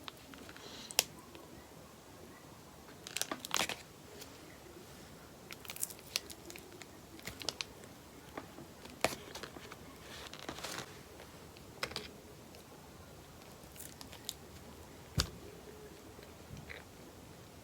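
Scattered bouts of light crinkling and rustling from something being handled, with a few sharp clicks between quiet stretches.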